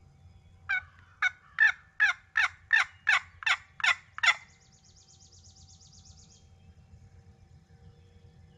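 Turkey yelping: a run of about ten loud, evenly spaced yelps, roughly three a second, each note dropping in pitch. A brief high trill follows.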